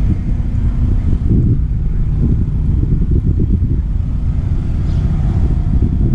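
A car engine running, its sound mostly low-pitched and uneven.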